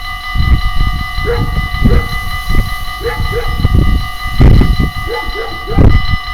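Dutch level-crossing warning bell ringing steadily, with uneven low thumps and rumbling and short squeaky chirps over it.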